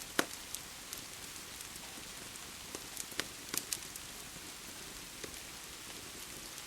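Steady rain hiss with the sharp pops and crackles of a wood fire scattered over it: one loud pop just after the start and a quick cluster of crackles about three and a half seconds in.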